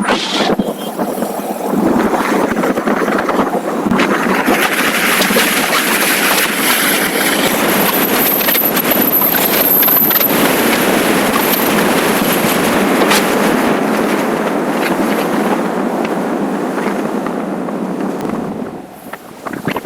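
Wind rushing over the microphone, mixed with the road and engine noise of a motorcycle on the move. It eases off briefly near the end.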